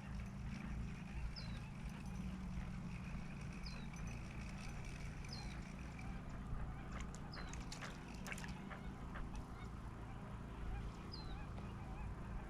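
Birds calling at the water: short, high, falling chirps repeat every second or two over a steady low rumble, with a quick run of sharp clicks about halfway through.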